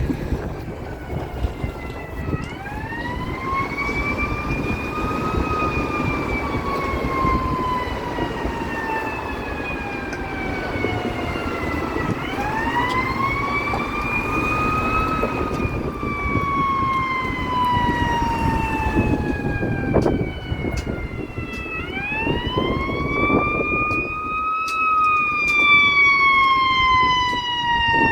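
Fire department emergency vehicle siren on a slow wail: each cycle rises over about three seconds and then falls slowly over about seven, three times in all, over road traffic noise.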